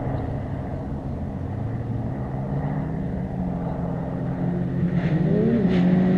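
Rally car engine approaching and getting louder, its steady note climbing in revs about five seconds in with a brief dip like a gear change.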